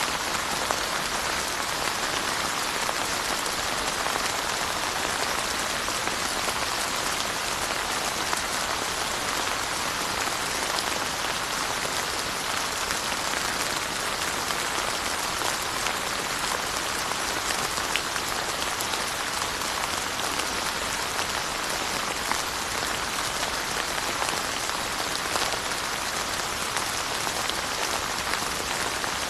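Steady rain falling on surfaces: an even, unbroken hiss with fine scattered drop patter, no thunder or other events.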